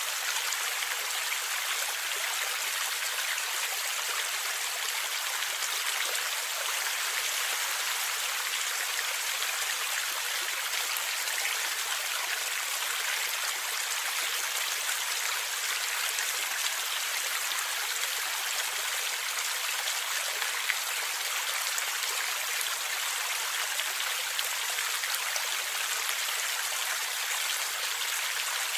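Gurgling river water flowing steadily: a constant rushing hiss with fine splashes throughout and little deep rumble.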